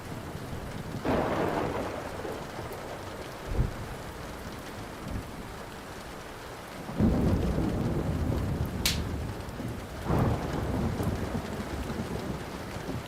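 Steady rain with rolling thunder that swells three times, about a second in, around seven seconds and again around ten seconds, over a crackling wood fire with a few sharp pops.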